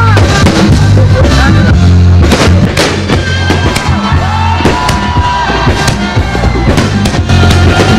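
Fireworks bursting and crackling over loud music with a heavy bass line.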